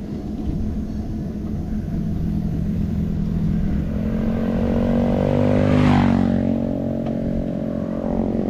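A motor vehicle drives past close by: its engine hum grows louder, peaks with a rush of tyre and engine noise about six seconds in, then drops slightly in pitch and fades as it moves away. A steady low rumble of wind and road noise on the handlebar-mounted camera runs underneath.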